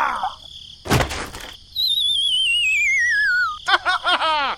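Cartoon sound effects: a dull thud about a second in, then a long warbling whistle sliding down in pitch, then a quick run of short descending boings.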